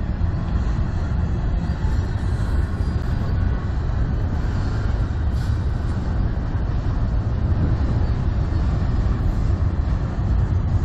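Freight train cars, including auto racks, rolling steadily past on the rails, mixed with heavy wind buffeting on the microphone.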